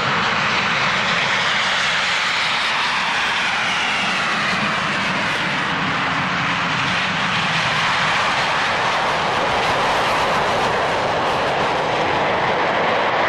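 Display team aircraft taking off in formation, engines at full power. A loud, steady rush with a whine that slowly falls in pitch as they pass.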